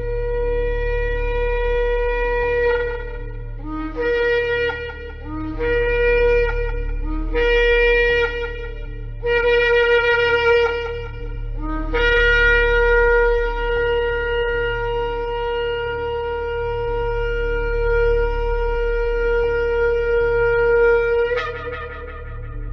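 Shofar (ram's horn) being blown: a held note of a couple of seconds, then four short blasts that each start on a lower note and jump up, then a long note held about nine seconds that breaks sharply upward just before it stops. A steady low hum runs underneath.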